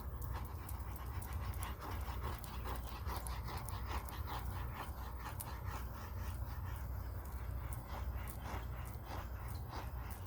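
A dog panting steadily and rhythmically, over a low steady hum.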